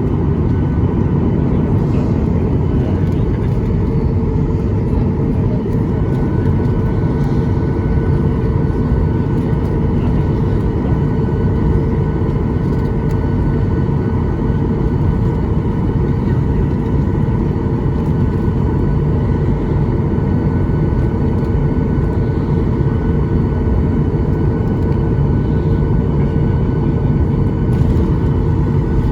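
Cabin noise of a Boeing 737-800 with its CFM56-7B turbofan engines running, heard from inside the passenger cabin: a steady rumble overlaid with several steady whining tones, a higher whine joining about six seconds in.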